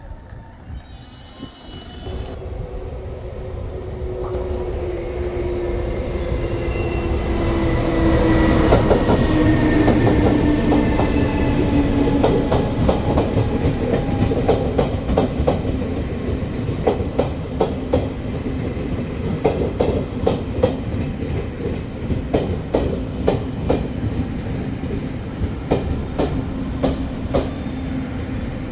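A Taiwan Railway train runs through the station platform, growing louder over the first several seconds. A whine slowly falls in pitch as it comes. Its wheels then click repeatedly over rail joints.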